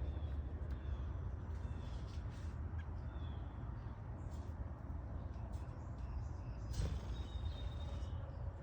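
Birds calling outdoors: faint short high calls repeat about once a second over a steady low rumble, with a thin held whistle-like note near the end.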